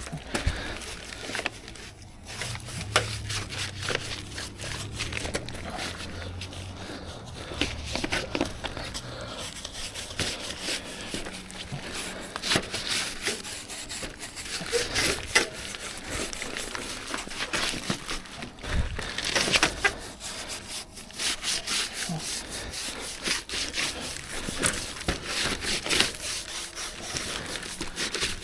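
Vegetable oil being rubbed onto timber formwork for a concrete base: repeated rubbing strokes on wood with irregular knocks and scrapes, and a low hum for several seconds near the start.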